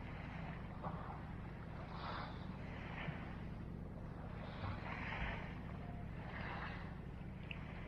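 Wind rumbling steadily on an action camera's microphone, with soft irregular rustling and crunching sounds about once a second.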